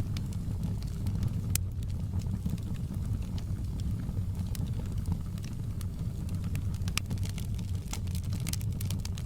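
Wood campfire burning with a steady low rumble and scattered sharp crackles and pops, which come more often near the end.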